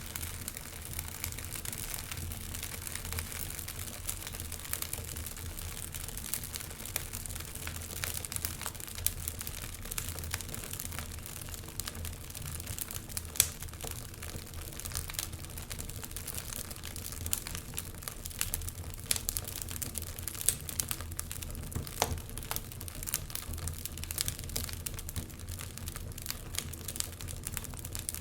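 Wood fire burning in a fireplace, crackling steadily with frequent small pops and a few sharper snaps, over a low steady rush of flame.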